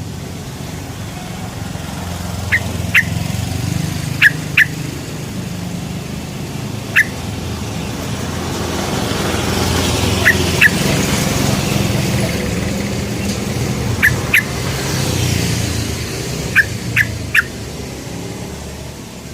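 Yellow-vented bulbul (trucukan) giving short, sharp 'cuk cuk' call notes in pairs and threes, a few seconds apart. A low background rumble swells and fades around the middle.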